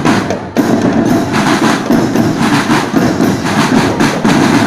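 Marching drum band playing a fast, dense percussion pattern on its drums, with a brief break about half a second in before the beating resumes.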